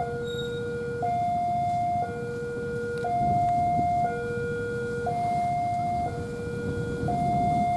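Railway level-crossing warning alarm sounding as a train approaches: two steady tones, one low and one high, alternating about once a second, over a low rumble.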